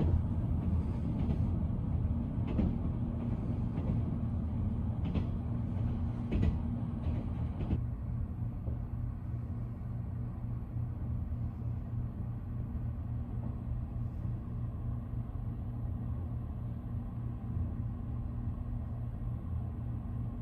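Steady low rumble and hum inside a train carriage, with a few clicks and knocks in the first eight seconds.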